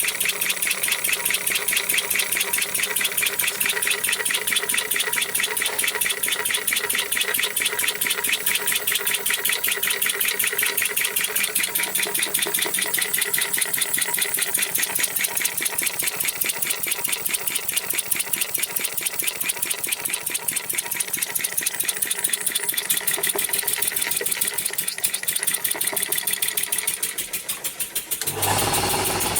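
Old four-stroke petrol engine converted to run on compressed air, running steadily on a throttled-down air supply with rapid, even puffs of exhausting air. A little before the end the sound dips briefly, then picks up again.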